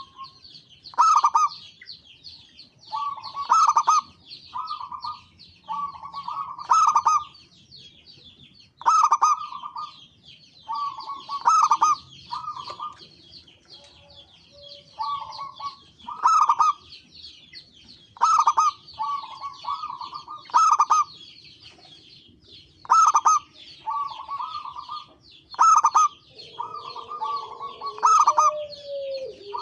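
Zebra doves (perkutut) cooing in repeated phrases: a loud note about every two to three seconds, each followed by shorter rolling coos. A steady high twittering of other small birds runs behind.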